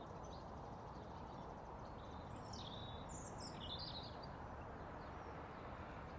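Birds chirping, a short run of high calls in the middle, over a faint steady outdoor background hiss.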